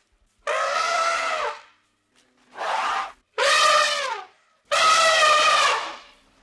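An animal calling four times: long, tuneful calls of about half a second to a second and a half each, the last the longest, several of them dipping in pitch at their ends.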